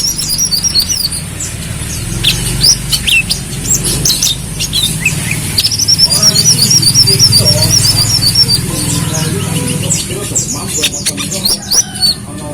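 A sunbird, the kolibri kelapa, singing a rapid, high-pitched twittering song of short chirps and sweeps, with a fast run of repeated notes in the middle.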